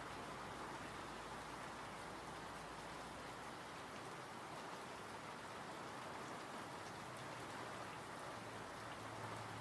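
Steady rain falling, an even hiss of many drops with a fine patter on top.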